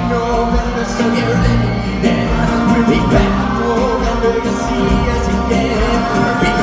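Live band music with some singing, playing on steadily with a beat.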